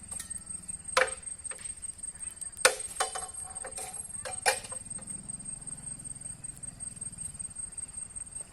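A steady high-pitched insect trill, with a handful of sharp clicks and knocks about one and three to four and a half seconds in.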